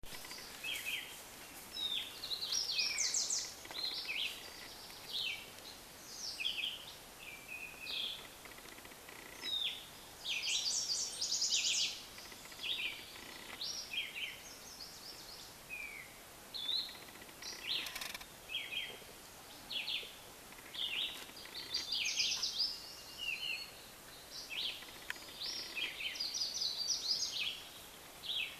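Several small birds chirping and singing together, many short overlapping chirps and quick trills without a break. A single sharp click about eighteen seconds in.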